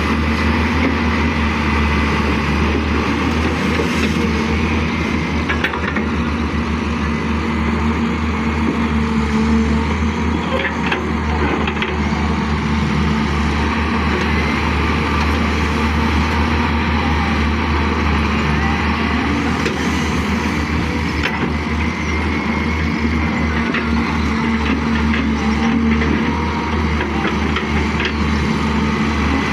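Heavy diesel engine of a working excavator running steadily, a constant low rumble with a steady hum above it and a few faint knocks.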